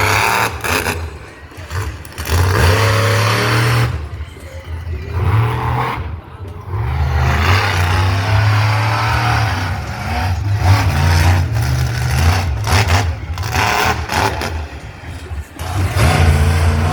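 Loud engines revving hard over and over, the pitch climbing and dropping over a deep steady rumble.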